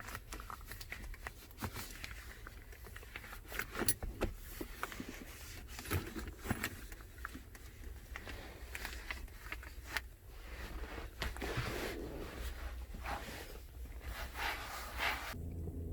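A disinfecting wipe being rubbed and scrubbed around a truck's gear shifter and console, an irregular rustling and scraping with scattered small clicks and knocks of handling.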